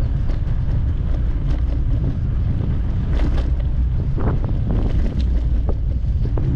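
Wind buffeting the microphone on a moving bicycle: a loud, steady low rumble, with scattered short clicks and rattles on top.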